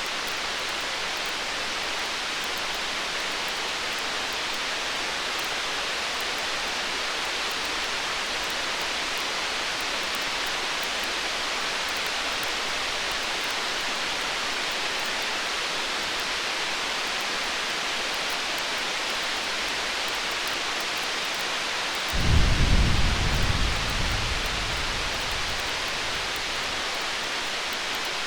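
Distant thunder rumbles once, deep and low, about three-quarters of the way through, loudest at first and fading over about three seconds. Beneath it runs a steady hiss with faint scattered crackles.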